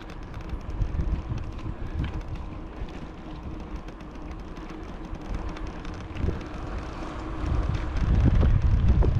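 Wind buffeting the camera microphone while riding a bicycle, over a low rolling rumble; it grows louder near the end.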